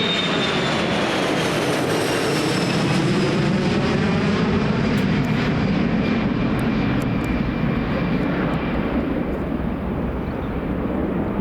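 Boeing 737-300's CFM56-3 turbofan engines at takeoff power, a loud steady jet roar with a high fan whine that falls slowly in pitch as the airliner goes past.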